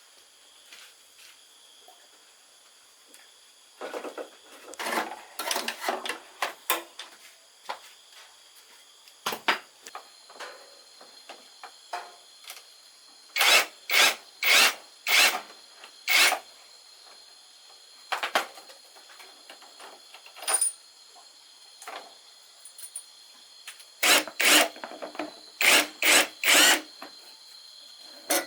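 Hand-tool work on motorcycle parts: groups of short scraping or scrubbing strokes, several in quick succession, with pauses between the groups. Steady insect trilling runs behind.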